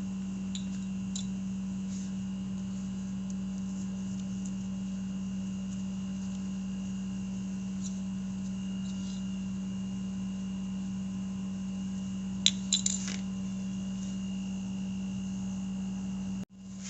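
Steady electrical hum with a faint high-pitched whine, broken by a few light clicks and, about two thirds of the way through, a quick cluster of sharper metallic clicks from brake parts or tools being handled.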